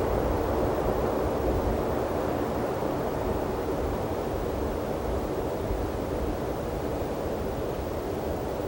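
Steady wind rushing over open desert boulders, buffeting low down, easing slowly over a few seconds.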